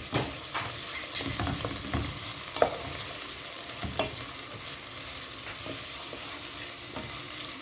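Food frying in a hot pan with a steady sizzling hiss, and a few short knocks and scrapes of a utensil stirring it, the sharpest about two and a half seconds in.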